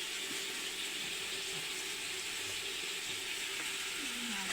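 Food frying in hot oil in a pan, a steady sizzling hiss.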